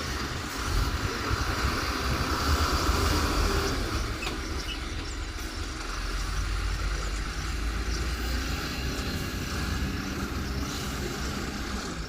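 Excavator's diesel engine running steadily, a low rumble that swells slightly for a couple of seconds near the start.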